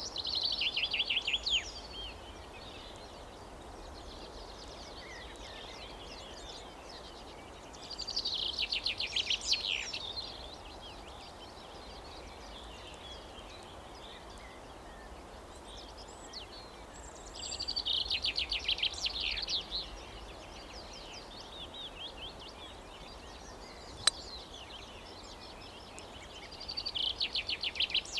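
A songbird singing the same trilled phrase four times, each about two seconds long and about nine seconds apart, over a steady outdoor background hum. A single sharp click sounds between the third and fourth phrases.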